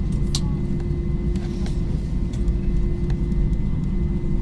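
Airbus A321-200 airliner noise: a steady low rumble with a constant hum above it and a few faint clicks.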